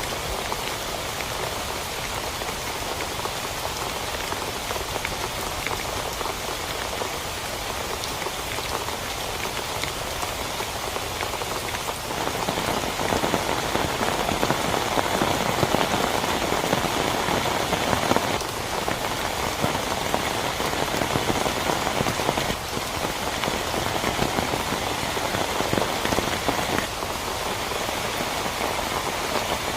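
Heavy rain falling on a tent, steady at first, then louder and fuller about twelve seconds in.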